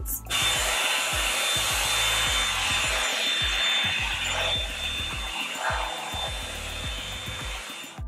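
Revlon One-Step Hair Dryer and Styler running on its cool setting: a steady rush of air with a thin, high motor whine, growing slowly quieter toward the end, as the paddle brush is drawn through hair.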